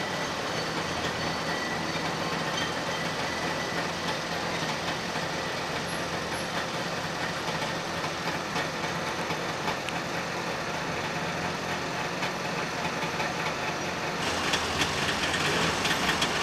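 Narrow-gauge train wagons rolling past over a level crossing, with car engines idling at the lowered barrier. About fourteen seconds in, the sound jumps to a louder, hissier noise.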